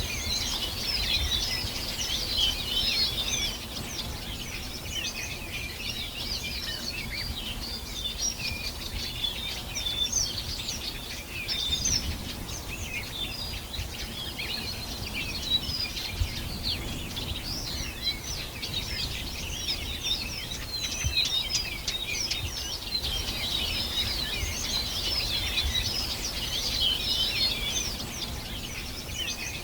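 A chorus of many small birds singing and chirping at once: a dense, unbroken stream of short, high chirps and trills over a low background rumble.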